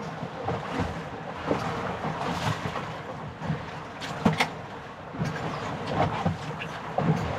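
Wind buffeting the microphone and choppy water slapping against a small boat's hull, with irregular low thumps and a few sharp knocks, the loudest a little past the middle.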